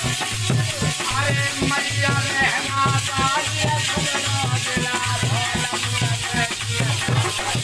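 Music of an Alha folk song performance: a drum beating steadily at about two beats a second under a shaken, hissing percussion, with a wavering melody line in the first half.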